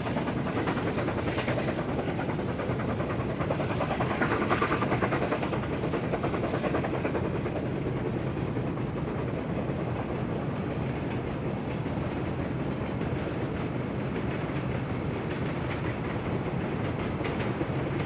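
Train running past on the rails: a steady rumble with the clickety-clack of wheels over the rail joints.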